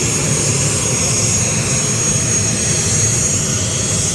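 ATR 72 turboprop engine running steadily on the ground, a loud constant rush with a high, even whine.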